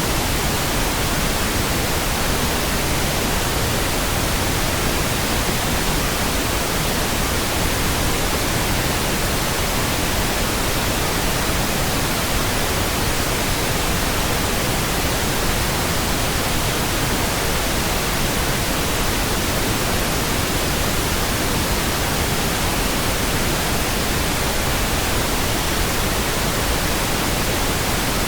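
Steady synthetic pink noise: an even, unchanging hiss spread across the whole frequency range, with no variation or events.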